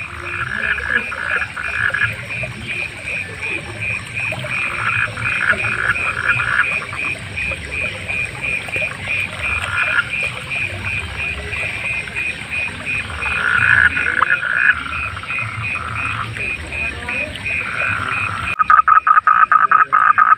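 Frog chorus at night: one fast, evenly pulsed call runs on throughout while other frogs croak in short pulsed bursts every few seconds. Near the end a louder frog close by calls in a rapid string of pulses.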